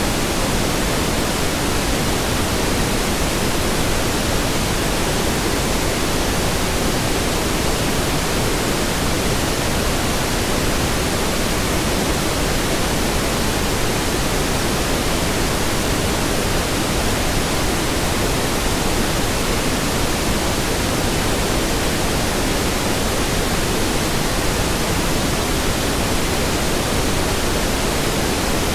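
Steady pink noise: an even, unchanging hiss spread across the whole range, fuller in the lows than white noise.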